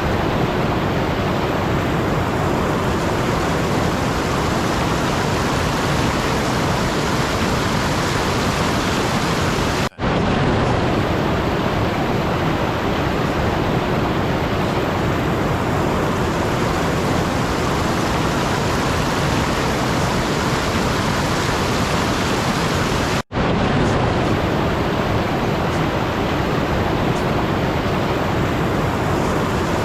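Steady, even rushing noise with no pitch or rhythm, like a white-noise or rain ambience track. It cuts out completely for an instant twice, about a third of the way in and again about three quarters of the way through.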